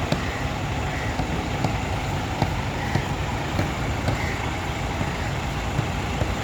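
A large vehicle running steadily, a continuous low rumble with scattered light clicks.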